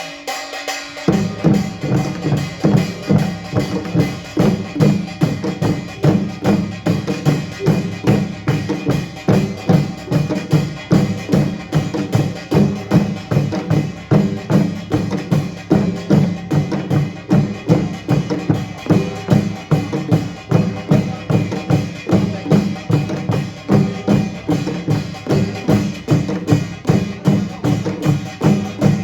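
Korean pungmul percussion ensemble playing a fast, driving rhythm on drums and gongs, with strong accents about twice a second. The full band comes in about a second in.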